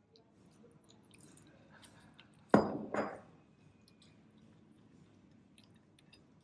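Kitchenware being handled: two sharp knocks in quick succession, each ringing briefly like ceramic or glass being set down, among faint small clicks.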